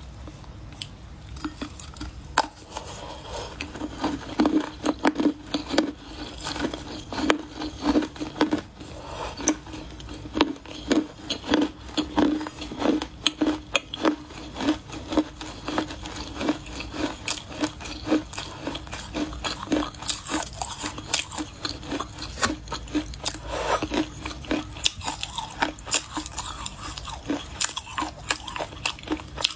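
Dry Chinese clay being bitten and chewed close to the microphone: sharp crunches and crackles over a steady chewing rhythm of about three bites a second.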